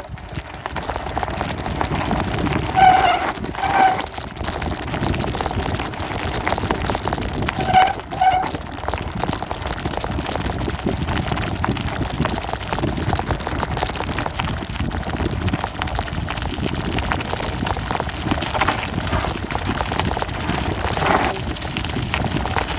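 Riding noise of a bicycle picked up by a phone mounted on its handlebars: a steady rush and rattle from the tyres on the trail and wind on the microphone. A few short pitched sounds stand out briefly, twice in the first eight seconds and once near the end.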